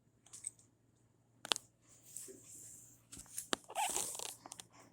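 Faint rustling with a few short, sharp clicks scattered through it.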